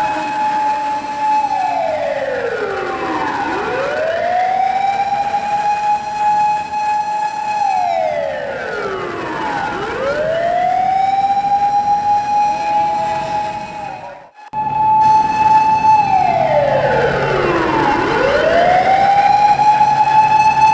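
Japanese fire engine siren wailing in a slow repeating cycle: it holds a high note, glides down over a couple of seconds, then sweeps quickly back up, about every six to seven seconds. The sound cuts out briefly about two-thirds of the way through.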